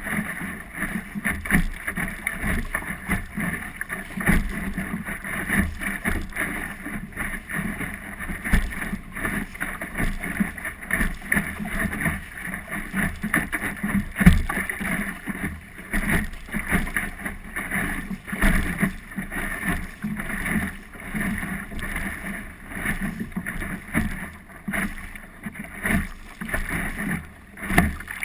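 Optimist sailing dinghy under way: water splashing and slapping against the small hull with wind noise, and frequent irregular knocks throughout.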